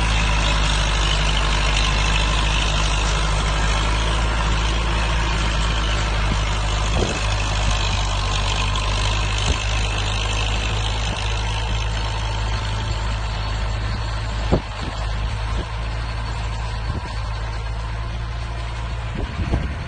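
Tractor engine running steadily at low revs, with a few short knocks over the top, the sharpest about two-thirds of the way through.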